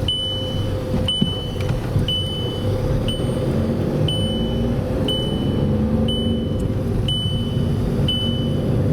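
Seatbelt warning chime in a Skoda Fabia cabin, beeping about once a second over the steady low running of the car's 1.4 TDI three-cylinder pump-injector diesel. The beeping is the warning for the passenger's unfastened seatbelt.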